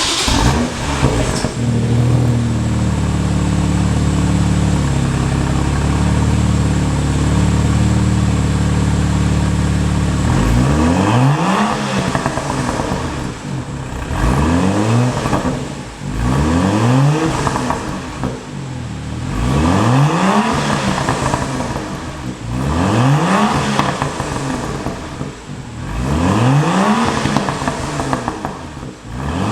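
BMW M2 F87's turbocharged straight-six through the BMW M Performance exhaust, very loud. It starts with a sudden loud flare, idles steadily for about ten seconds, then is blipped again and again, each rev rising sharply and falling back, about every two to three seconds.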